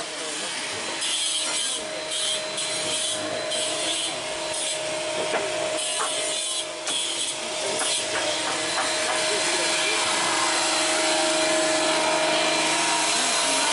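Workshop tool noise: irregular scraping and rubbing strokes, then a steady whirring hiss with a humming tone that gets slightly louder after about eight seconds.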